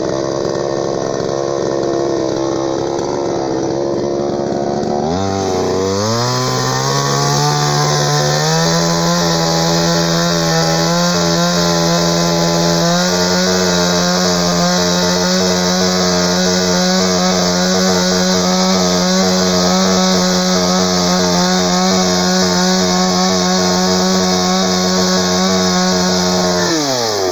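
Two-stroke chainsaw engine: running at low speed, then revving up sharply about five seconds in and held at high speed for about twenty seconds before dropping back near the end.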